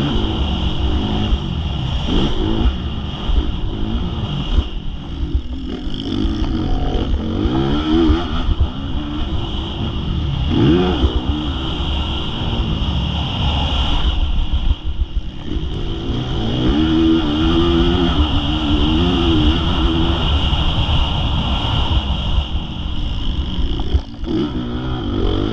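Motocross bike engine revving hard and backing off again and again, its pitch climbing and dropping with the throttle and gear changes, with a steep rise and fall about eleven seconds in.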